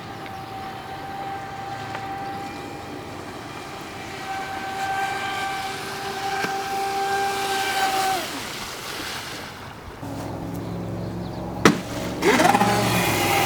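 Traxxas Spartan RC speed boat's brushless electric motor whining at a steady high pitch, then winding down about eight seconds in. A sharp click comes near the end, and the whine rises again as throttle comes back on.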